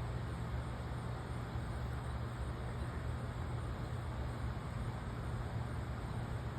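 A steady low motor hum over a constant wash of background noise, unchanging throughout.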